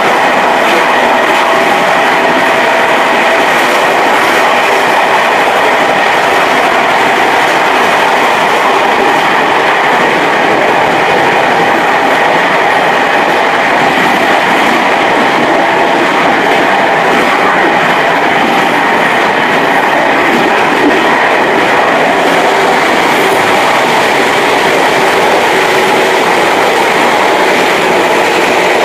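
Passenger train running at speed, heard from its rear coach: a steady rolling noise of steel wheels on the rails, with a few faint clicks over rail joints in the first half.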